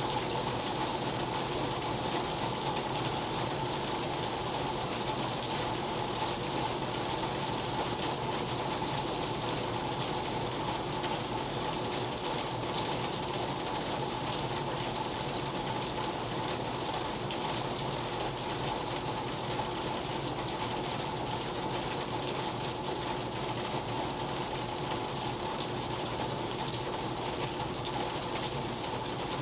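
Steady rain falling: an even hiss with scattered faint ticks and a faint steady hum underneath.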